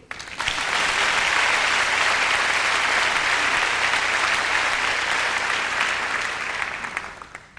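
Concert audience applauding. The applause starts suddenly, holds steady, and dies away near the end.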